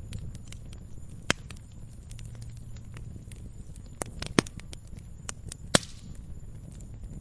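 Campfire crackling: a steady scatter of small wood crackles over a low rumble, with three sharp, louder pops, about a second in, past four seconds and near six seconds.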